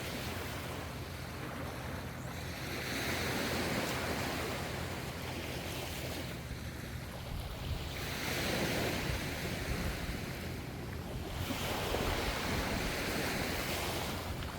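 Gentle ocean waves washing in, the surf sound swelling and easing about three times, roughly every four seconds, over a steady low rumble.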